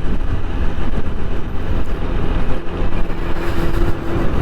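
Riding noise of a TVS Apache 160 4V single-cylinder motorcycle on a highway, picked up by a helmet-mounted camera: engine and wind rumble on the microphone with passing traffic. A steady low tone joins about three seconds in and holds until near the end.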